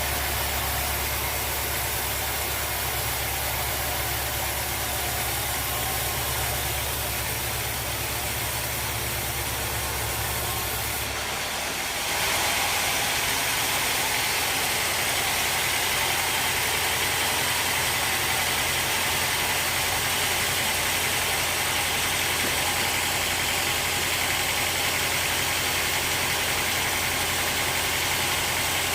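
Sawmill machinery running steadily. About twelve seconds in, the sound changes abruptly: a low hum gives way to a slightly louder, hissier run.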